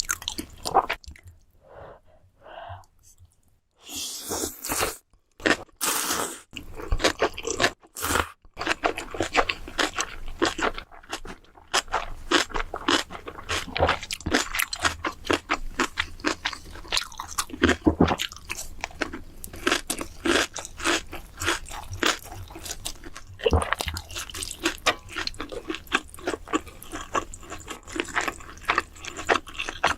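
Close-miked eating sounds: a person chewing and crunching food in quick, irregular bites, with a short quiet pause near the start.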